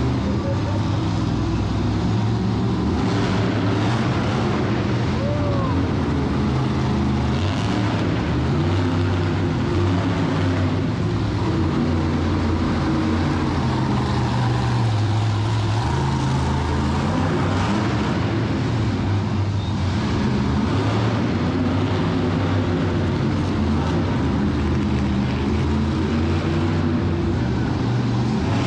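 Monster truck engines running and revving: a continuous low engine drone whose pitch keeps stepping up and down.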